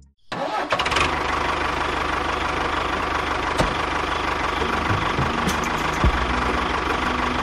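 Tractor engine coming on abruptly about a third of a second in, then running steadily with a deep rumble and rattle.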